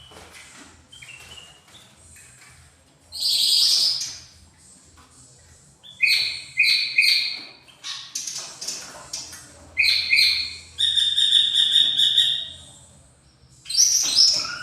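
Cucak ijo (green leafbird) singing in full, varied song: loud bursts of sharp, high whistled phrases, a few quick repeated notes, and one long held high note about eleven seconds in.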